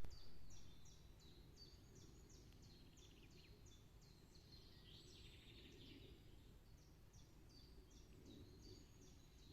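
Faint birdsong: a small bird repeats short, quick high notes that fall in pitch, about three a second, over a low, steady background rumble.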